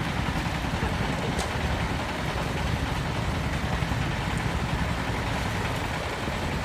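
A truck engine running steadily, a low, even engine sound with no change in speed.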